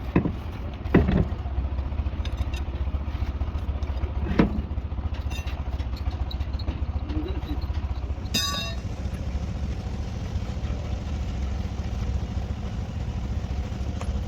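An engine running steadily with a low rumble. Sharp knocks sound near the start, about a second in and about four seconds in, and a ringing metal clang comes about eight seconds in.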